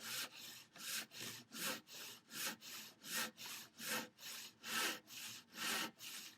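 Handsaw crosscutting through a wooden workbench leg to cut it to length: steady back-and-forth strokes, a louder stroke about every second with a softer one between.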